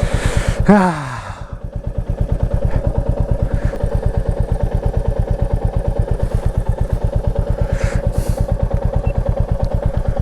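Motorcycle engine running at low revs with a steady, even train of pulses as the bike rides along. About a second in comes a short exclamation from a voice, falling in pitch.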